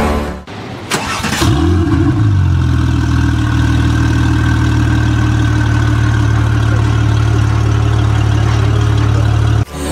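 A car engine starting: a click, then a brief flare in revs that settles into a steady idle, which cuts off abruptly near the end.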